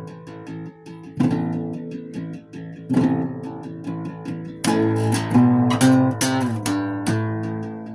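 Solo guitar playing the instrumental intro of a cover song: picked notes ringing over one another, with a few hard-struck chords, a cluster of them a little past the middle, and a note bent downward near the end.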